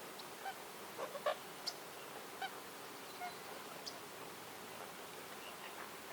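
Wild birds calling: a few short calls, the loudest a quick cluster about a second in, with sharp high chips scattered through, over a steady background hiss.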